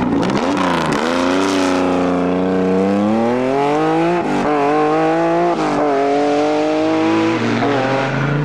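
Rally car engine accelerating hard through the gears: the engine note climbs steadily, then drops sharply at each upshift, about four, five and a half and seven and a half seconds in.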